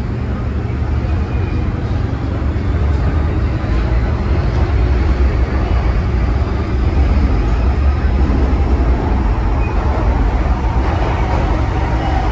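Hong Kong MTR M-Train running between stations, heard from inside the car: a steady low rumble of wheels on rail and running gear that grows a little louder toward the middle, then eases slightly.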